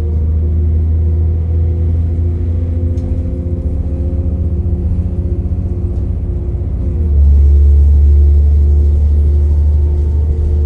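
Diesel passenger train heard from inside the carriage: a deep, steady rumble with a droning whine above it that rises slightly in pitch. The low rumble grows louder about seven seconds in.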